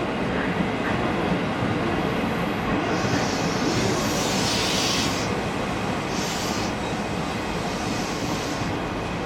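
A train running at a station platform, a steady rumble with several short hissing sounds partway through.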